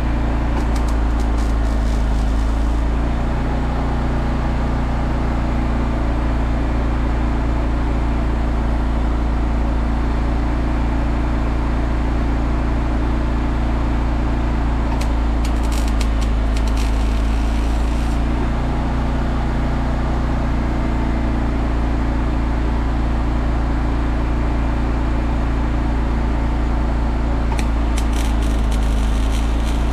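Steady low machine hum, with three short spells of welding-arc crackle, each about three seconds long: near the start, about halfway through and near the end.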